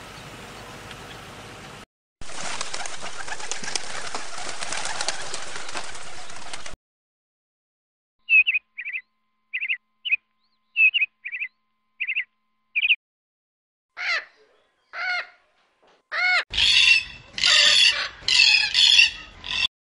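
A stretch of bird calls. After a few seconds of steady rushing noise, an Indian peacock gives a run of about eight short, sharp calls, then two longer calls. Near the end a rainbow lorikeet screeches loudly and rapidly.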